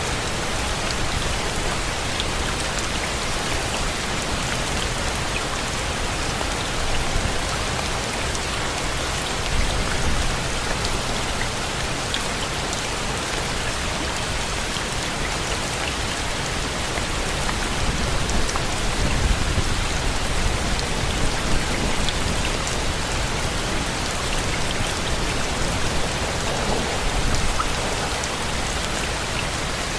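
Steady rain, a dense even hiss with individual drops ticking through it. A low rumble swells briefly about two-thirds of the way in.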